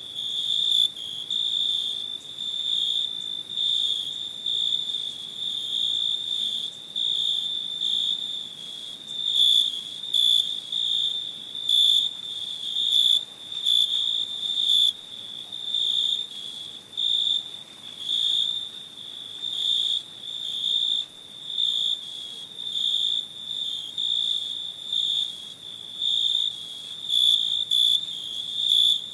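Crickets chirping: a steady, high-pitched trill that swells and fades about once a second.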